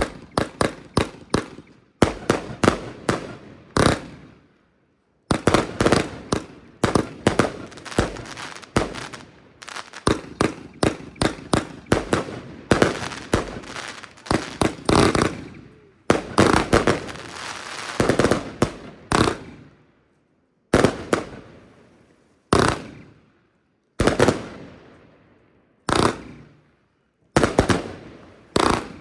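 Röder Jubelbox compound firework battery firing: rapid strings of sharp shots, each fading away, that thin out after about twenty seconds to single shots every second or two.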